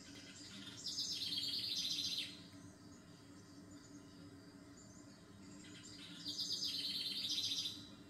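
A small bird singing two phrases of fast, repeated high chirps, each about a second and a half long and about five seconds apart, over a faint steady background hum.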